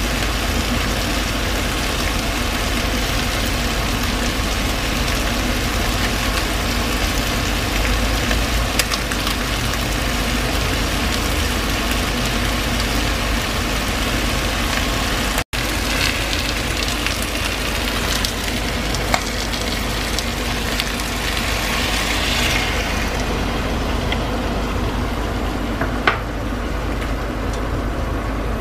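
Chicken pieces sizzling as they fry in a stainless steel pan, a steady hiss over a constant low hum, with a couple of sharp clicks in the second half.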